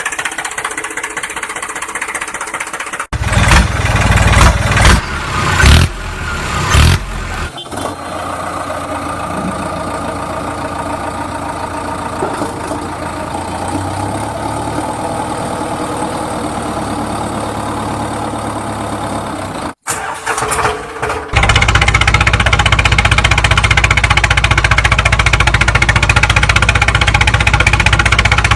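Engine running steadily in several back-to-back segments that change abruptly, with short louder rises in the first few seconds and a louder, steadier run over the last seven seconds.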